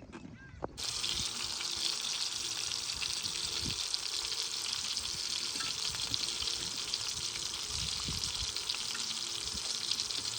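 A pot of pumpkin cooking with a steady sizzling crackle that starts abruptly just under a second in, with a few soft low knocks.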